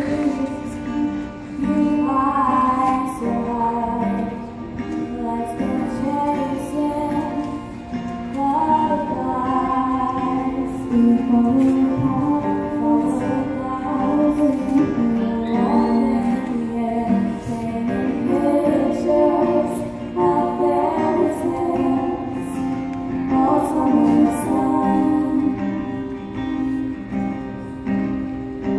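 Concert choir singing a song, backed by instrumental accompaniment.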